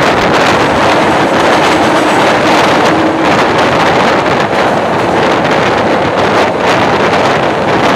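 Passenger train running through a railway tunnel, heard from beside a moving coach: a loud, steady rush of wheel and air noise, with wind buffeting the microphone.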